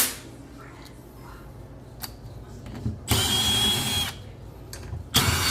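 Cordless drill driving screws: two runs of about a second each with a high motor whine, the second starting near the end, after a couple of sharp clicks.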